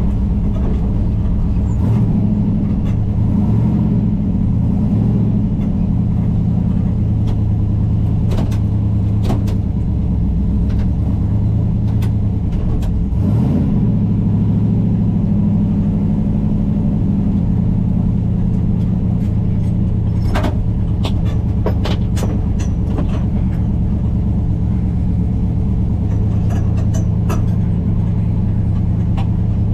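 A vehicle engine running steadily at low revs with a deep rumble, and scattered clicks and knocks over it, most of them a little past the middle.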